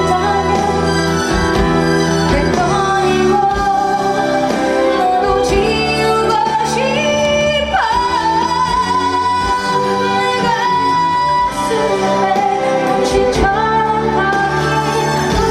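A woman singing live over band accompaniment, sliding up into a long held note about halfway through.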